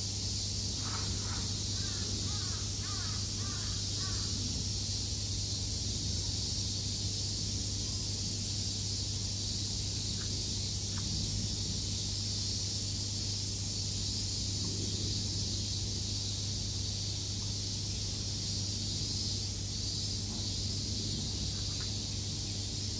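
A bird calling in a quick series of short calls from about a second in, for roughly three seconds, with a couple of faint single calls later, over a steady background hiss and low hum.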